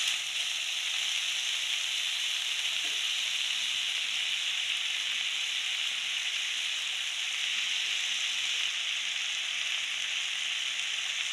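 Taro stolons and potato pieces frying in hot oil in a karahi, a steady sizzle that does not change.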